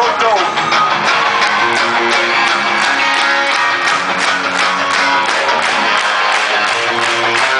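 Rock band playing live: strummed guitars over bass and a steady drum beat, in an instrumental passage between sung lines.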